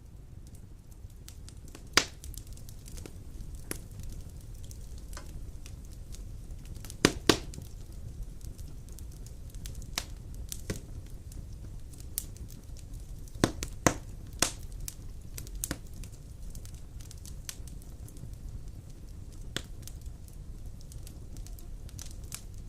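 Large wood logs burning in a stone fireplace: flames hiss and rumble steadily, with scattered sharp crackles and pops, the loudest about 2 seconds in, a close pair about 7 seconds in, and a cluster around 13 to 14 seconds.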